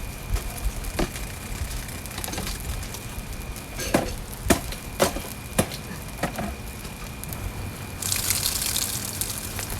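Food sizzling on a camp grill, with a few sharp clicks and taps, then a sudden louder burst of hissing about eight seconds in.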